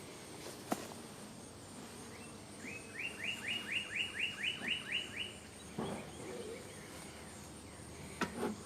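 A songbird sings a run of about ten quick, rising chirped notes, about four a second, lasting some two and a half seconds. A sharp click comes before it, and a few dull knocks come after.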